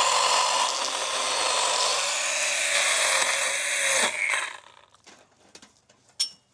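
Stihl mini pruning chainsaw running and cutting into overgrown woody growth. Its pitch sags slightly under load, then the saw cuts off suddenly about four seconds in with a short wind-down, followed by faint clicks and one sharp click near the end.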